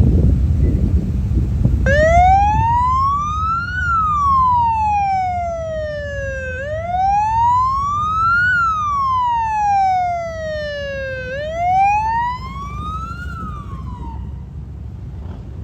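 Emergency vehicle siren on wail, sweeping slowly up and down three times before cutting off, over a low rumble of vehicle engines.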